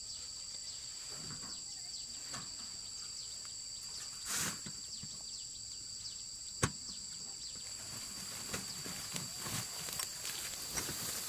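Insects shrilling steadily in a high, even drone, with scattered rustles and a sharp click about six and a half seconds in.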